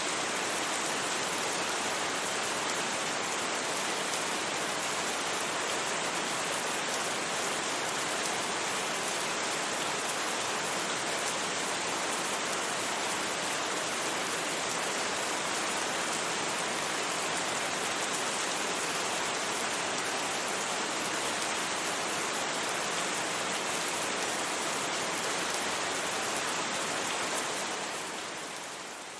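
Steady, even rain with no thunder, fading out near the end.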